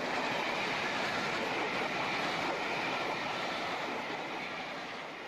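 Train passing on the line: a steady rush of wheel and running noise that begins to fade near the end.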